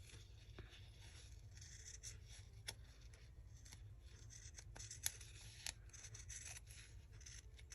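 Faint rustling of fabric and paper being handled at a craft table, with a few light clicks, over a low steady hum.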